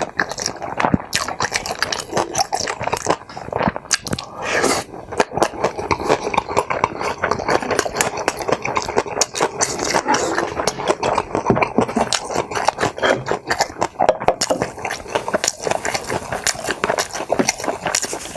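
Close-miked chewing and mouth noises of a person eating tteokbokki rice cakes and mini kimbap, a dense run of small clicks throughout.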